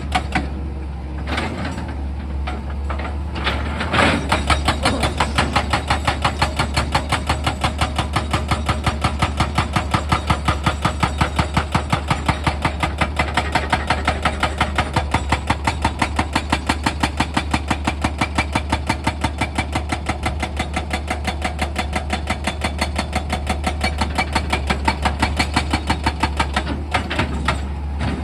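Excavator's rock-breaking attachment hammering stone in a fast, even rhythm of about four blows a second, over the steady hum of the machine's engine. The blows are ragged at first and settle into the steady rhythm about four seconds in.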